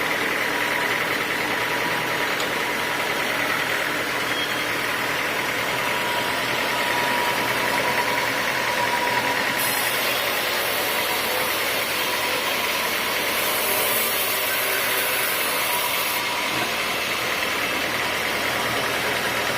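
Sawmill machinery running steadily, an even mechanical drone with a faint steady whine. A higher hiss joins about halfway through and stops a few seconds later.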